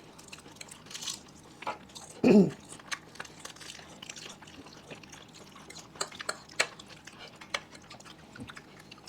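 Eating sounds of a person chewing dahi phuchka, with small clicks of cutlery against a bowl. About two seconds in there is one short vocal sound, the loudest thing here.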